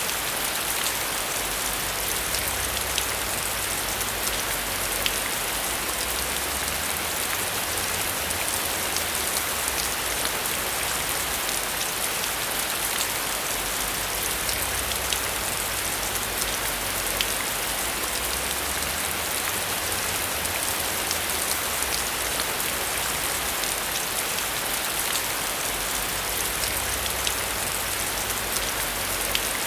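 Heavy rain falling steadily: a dense, even hiss with scattered sharp ticks of single drops striking a surface.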